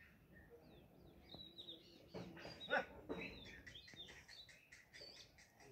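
Small birds chirping in many quick, short notes, with a louder, lower call about two to three seconds in.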